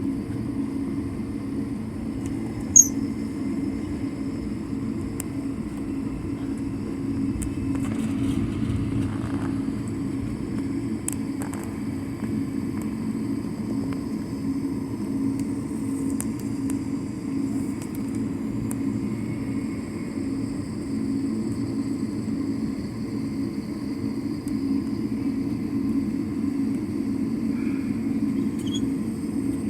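Steady engine and air drone heard inside an airliner's cabin as it taxis before takeoff, with a single sharp click about three seconds in.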